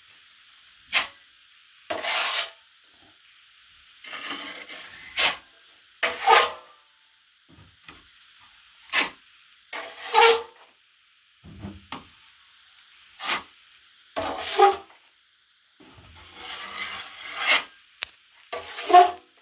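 Metal drywall knife scraping and spreading joint compound over a drywall patch in repeated strokes, some short and sharp, some longer and smoother.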